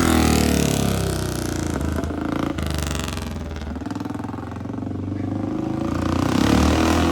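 Rickman motorcycle engine on a parade lap, loud at first and falling in pitch as it moves off, fading to its quietest about four seconds in, then growing louder and rising in pitch again near the end as it comes back round.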